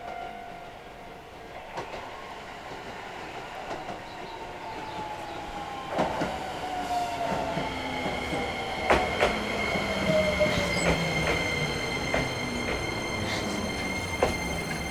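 Electric commuter train pulling into a station: its traction motors whine on a tone that falls steadily as it brakes, a steady high whine joins about halfway through, and the wheels click over rail joints several times.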